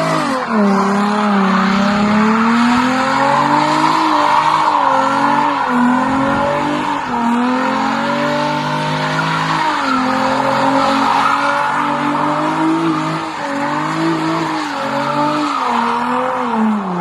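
A car doing skids: the engine revs rise and fall over and over while the tyres squeal steadily, and both cut off at the end.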